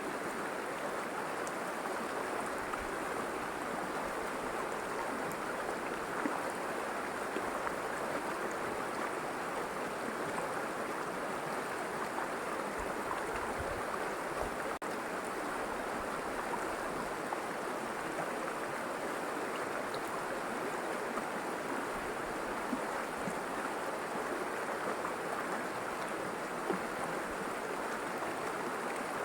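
River water flowing steadily: an even, continuous rush.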